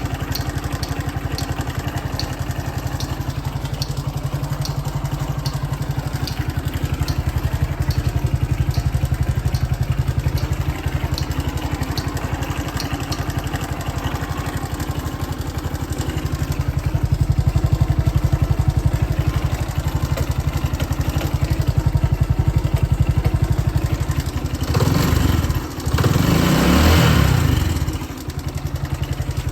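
Honda Cross Cub 110's single-cylinder four-stroke engine idling steadily, with a faint regular tick over roughly the first dozen seconds. The idle swells a little twice in the second half, and near the end a loud rushing burst of noise lasts about three seconds.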